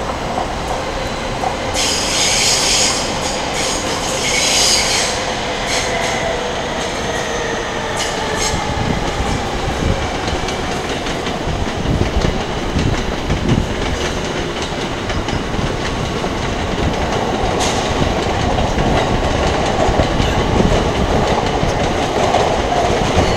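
Electric trains running on the tracks at Tokyo Station. The wheels squeal in two short bursts a couple of seconds in, over a steady rumble with clicks at the rail joints, and the sound grows louder near the end as a train passes.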